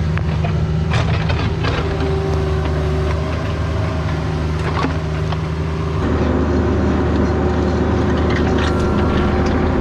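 CAT 304 mini excavator's diesel engine running steadily at work, with occasional sharp metallic clanks. About six seconds in the engine note grows louder and busier, as under more load.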